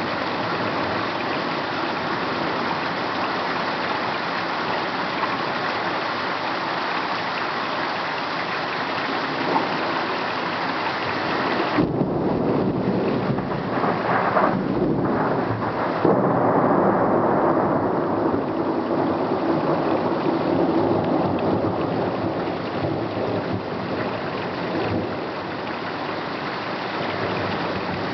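Heavy rain falling steadily. About twelve seconds in, a long roll of thunder starts suddenly and rumbles on for about ten seconds, loudest a few seconds after it begins, then sinks back under the rain.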